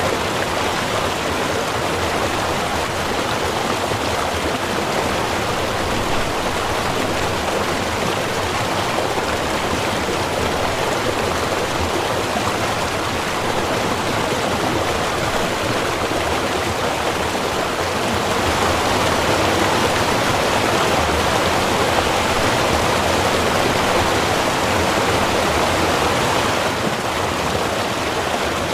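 Small river's running water, a steady rushing that swells a little louder for several seconds from about two-thirds of the way through.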